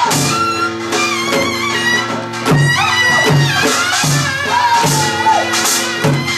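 Korean traditional music accompanying a deotbaegi dance: a reedy wind melody with sliding, bending pitch over a steady drum beat about every three quarters of a second.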